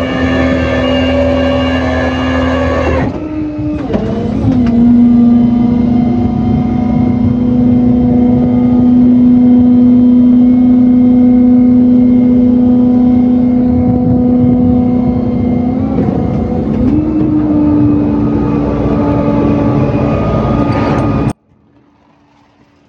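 Tow truck engine running with a steady drone that shifts pitch twice, about three seconds in and again about seventeen seconds in, then cuts off suddenly near the end.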